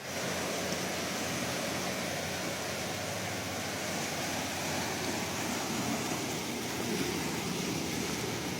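Sea noise: a steady, even wash of surf without distinct single wave breaks, with a faint low hum underneath.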